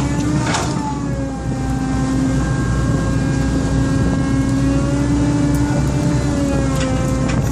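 Excavator's engine running steadily, with a couple of sharp knocks, one about half a second in and one near the end.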